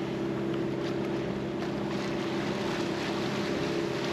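A boat's engine running at a steady drone, with wind and water noise around it.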